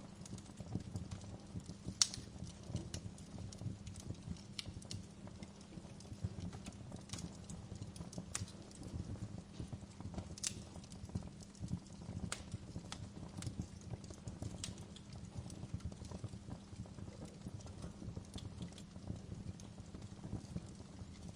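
Wood fire crackling in a fireplace: irregular sharp pops and snaps over a low steady rumble of the burning logs, with a louder pop about two seconds in.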